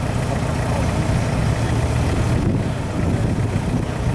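Off-road vehicle's engine running steadily, with a deep, even sound and no revving.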